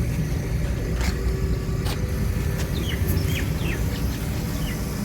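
Steady low engine rumble from an idling vehicle, with a few short, quick bird chirps in the middle and a couple of sharp clicks.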